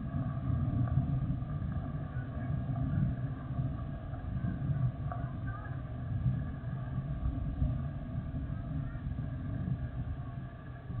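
Jet engines of a Boeing 767-300F freighter giving a steady low rumble that swells and eases a little.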